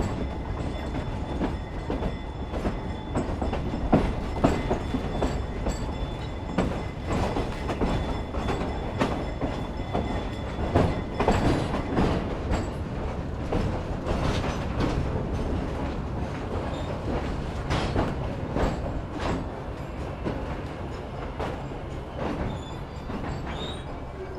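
Narrow-gauge railroad train rolling along jointed track: a steady low rumble with irregular clacks and knocks from the wheels over the rail joints, growing a little quieter near the end.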